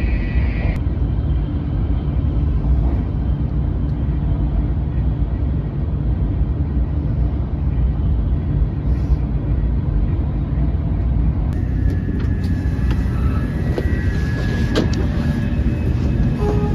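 Steady low rumble of a Taiwan High Speed Rail train cabin while the train is running. Past the middle, clicks and thin high squeals join the rumble.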